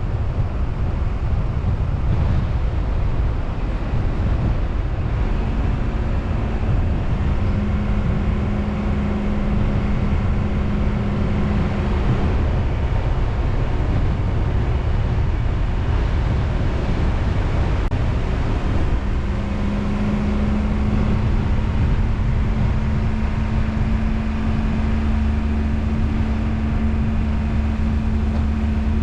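A car driving: steady engine and road noise, with an engine hum that comes in about five seconds in, drops out around twelve seconds, and returns near twenty seconds, holding steady.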